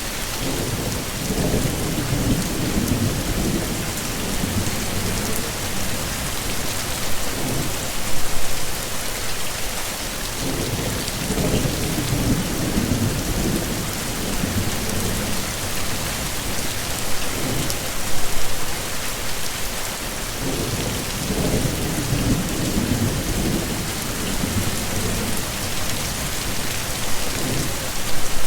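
Heavy rain falling steadily, with low rolling rumbles of thunder three times, about ten seconds apart.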